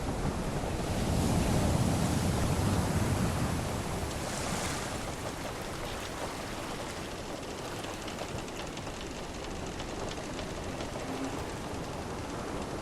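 Sea waves washing and wind blowing in a continuous ambient seascape, with a swell building about a second in and a brief hissing wash a little later.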